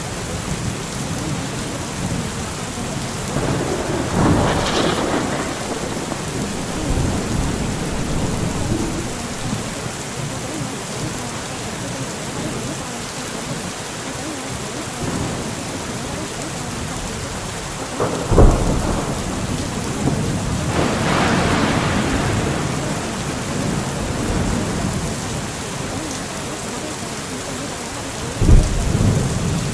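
Steady rain falling, with thunder: a rumble swelling about four seconds in and again past the twenty-second mark, and sharp thunderclaps at about eighteen seconds and near the end.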